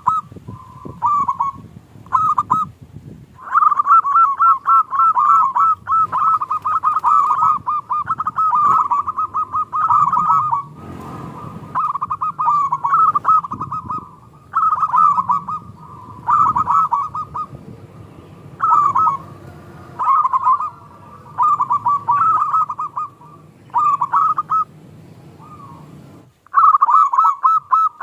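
Zebra doves (perkutut) cooing: repeated quick, bubbling phrases on much the same pitch, running almost continuously for a stretch and then coming in shorter bouts with brief pauses.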